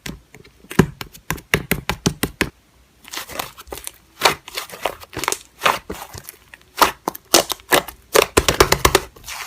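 Slime being squeezed and poked by hand, giving a stream of irregular sticky clicks and crackling pops.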